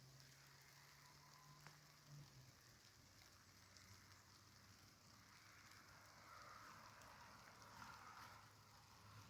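Near silence with a faint, steady hiss of rain.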